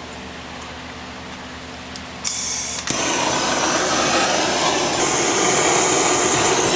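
A hand torch's gas starts hissing about two seconds in and catches half a second later into a steady rushing flame, lighting a portable gas fire pit's burner whose spark igniter gives no spark.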